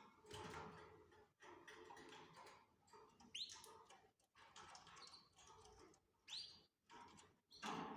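Canaries giving faint short calls, a few sharp rising chirps among softer chatter.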